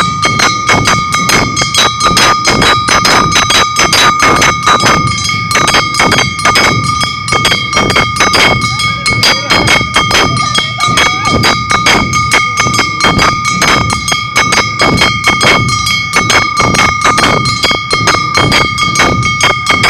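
Awa Odori festival band playing a fast, steady beat, about four strikes a second, on drums and metal gongs. A continuous metallic ringing is held over the beat.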